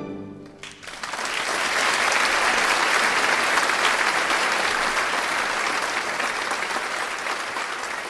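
Audience applauding. The clapping breaks out about a second in, is fullest in the first few seconds, then slowly thins out.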